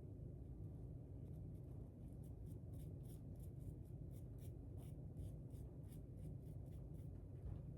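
Faint, scratchy strokes of stain being rubbed onto a deer antler, about three a second, mostly through the middle of the stretch, over a low steady hum.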